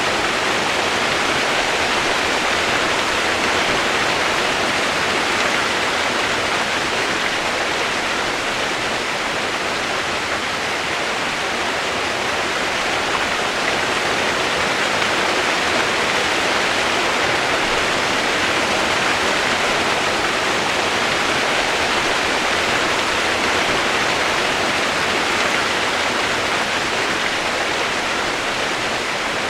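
Steady rushing of flowing water, an even hiss that holds at the same level throughout.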